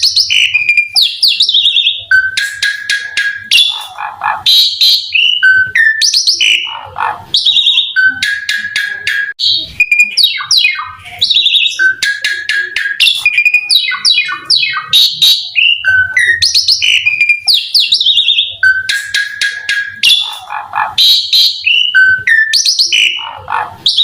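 Javan pied starling (jalak suren) singing loudly and without pause: rapid, rattling bursts of stuttered notes alternating with whistles and falling glides, in the 'robot shot' (tembakan robot) style. The same run of phrases comes round about every eight seconds.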